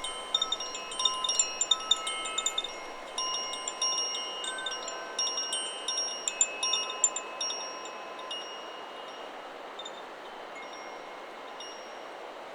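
Chakra Chimes 'Solar Plexus' wind chime ringing in the wind: a busy flurry of strikes on several pitched tubes that thins out to a few faint strikes after about eight seconds. Steady wind noise runs underneath.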